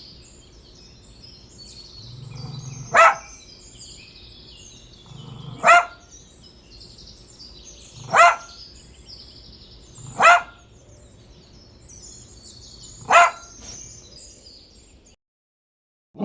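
A dog barking: five single loud barks, two to three seconds apart, over a faint background hiss. The sound cuts out about a second before the end.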